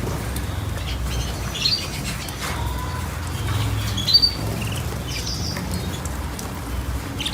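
A few short, high bird chirps, about three of them spaced a couple of seconds apart, over a steady low rumble.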